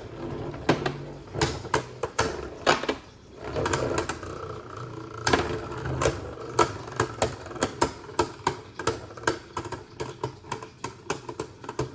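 Beyblade Burst tops spinning and clashing in a plastic stadium: a steady whir under many sharp plastic clacks, coming faster and closer together over the last few seconds.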